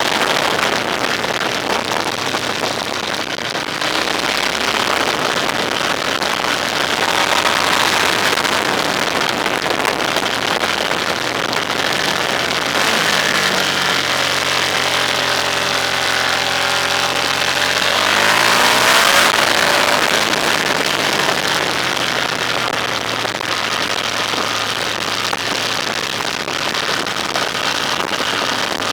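A vehicle driving, with a steady rush of wind and road noise over the engine. Midway the engine's pitch sinks for a few seconds as it slows, then climbs sharply as it accelerates again.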